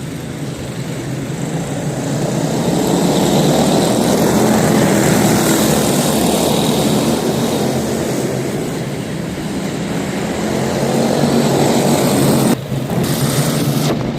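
A pack of quarter midget race cars with Briggs & Stratton Animal single-cylinder engines running at racing speed. The engine noise swells for a few seconds, eases, then swells again, with a sudden brief drop near the end.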